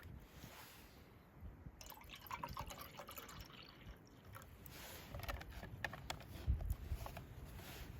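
Liquid dripping and splashing, among scattered small clicks and knocks.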